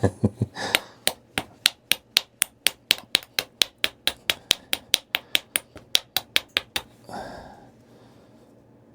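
A flintknapper's bopper tapping on a Tallahatta quartzite point: a quick, even run of light, sharp clicks, about three or four a second, that stops about seven seconds in. The strikes are working off the thick nose of the point.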